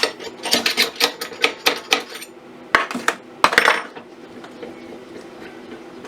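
Metal lathe parts clinking and clattering as the tailstock centre is taken out and swapped: a quick run of clinks in the first two seconds, then a few sharper knocks about three to four seconds in, over a steady hum.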